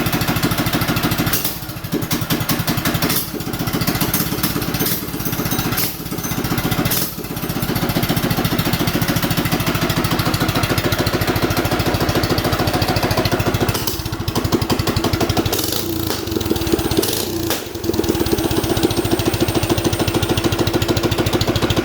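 Straight-piped minibike engine running on a cold start without choke, its rapid exhaust firing continuous, with sharp cracks of backfire from the straight pipe several times in the first seven seconds and again around 14 to 18 seconds in.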